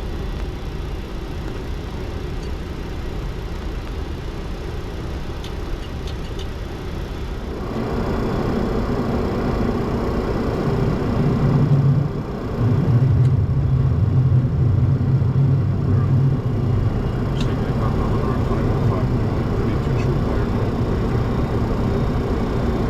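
Steady cockpit noise of a Boeing 737-200: its Pratt & Whitney JT8D jet engines and the airflow. About eight seconds in the sound changes abruptly and grows louder, and from about twelve seconds a strong low hum runs on.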